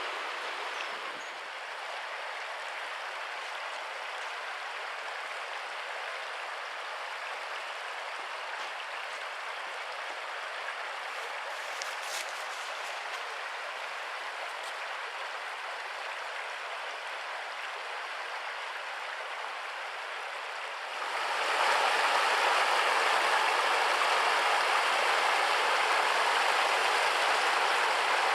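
Steady rush of flowing stream water, becoming suddenly louder about three quarters of the way through.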